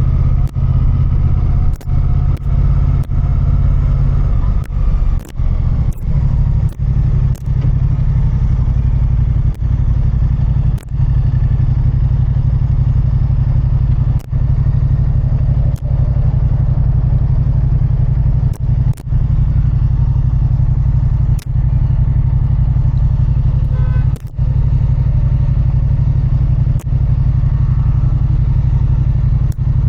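Motorcycle engine running steadily under way, a strong low hum mixed with wind and road noise. The sound drops out briefly every second or two, many times.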